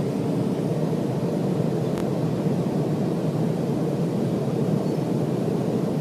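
Steady cabin noise of a jet airliner: an even rush of engines and airflow heard from inside the cabin, with a faint tick about two seconds in.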